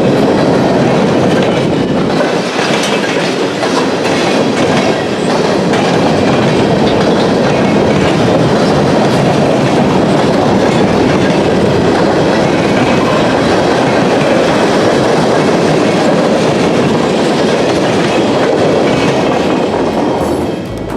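Mixed freight cars rolling past close by: a steady rumble of steel wheels on rail, with clickety-clack over the rail joints. It eases off near the end.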